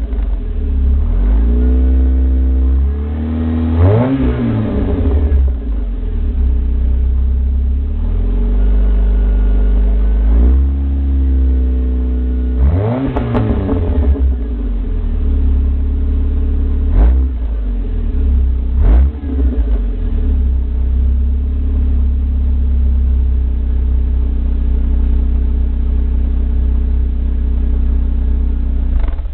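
Exhaust of a 2001 Chevrolet S-10's 2.2-litre four-cylinder engine through a 14-inch-body Thrush turbo muffler and a hollowed factory catalytic converter, idling and being revved. It revs up and falls back about 4 seconds in and again around 13 seconds, blips twice briefly near 17 and 19 seconds, then settles into a steady idle.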